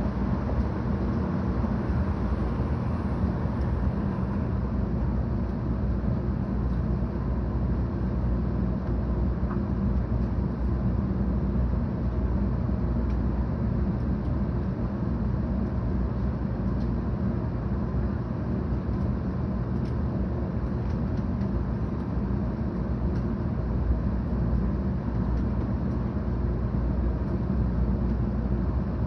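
Interior running noise of a 700 Series Shinkansen train heard from inside the passenger cabin: a steady low rumble that holds constant.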